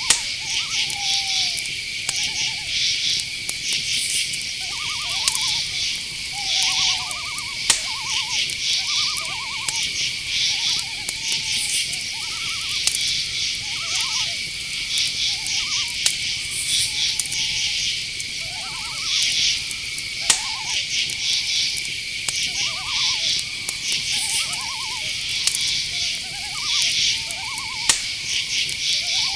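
Night-forest ambience: crickets chirp throughout, a steady high trill with pulsed chirps above it, under repeated short calls of owls every second or two. A few sharp clicks come through now and then.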